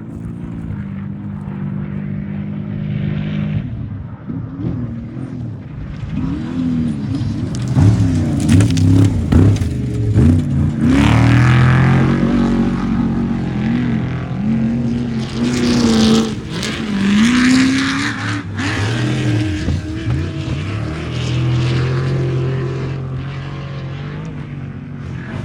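Off-road race trucks' engines revving and accelerating hard, the engine note rising and falling again and again.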